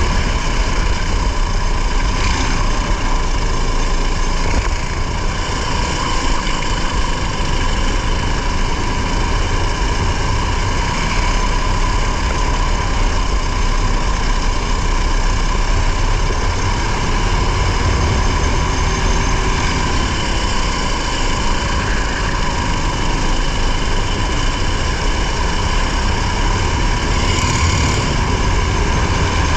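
Race car engine running at a steady, unchanging pitch, heard from inside the car, with a strong low rumble.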